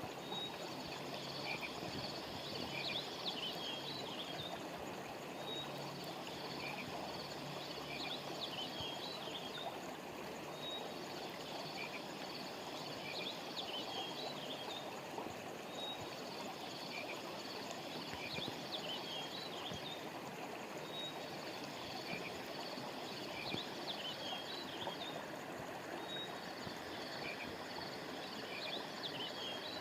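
Steady rush of a flowing river, with a short cluster of high chirping calls that repeats about every five seconds, like a looped track.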